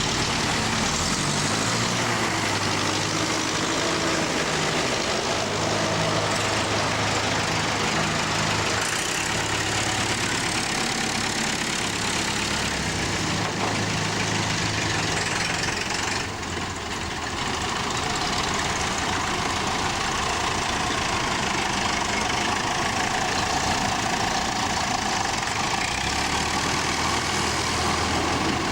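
Diesel tractor engine running steadily, its engine note shifting up and down a few times.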